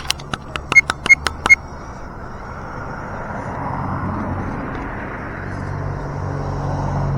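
A quick run of about eight sharp clicks and clinks in the first second and a half, some with a short metallic ring. Then comes a steady vehicle-like noise that slowly grows louder, with a low hum building near the end.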